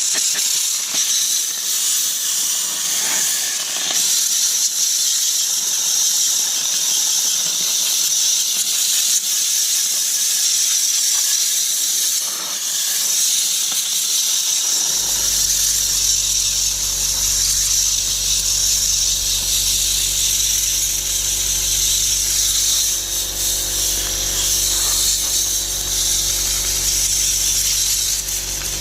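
Compressed-air blow gun hissing steadily as it blows dust out of the New Holland 6080 tractor's radiator and cooler pack. About halfway through a low steady hum joins in underneath.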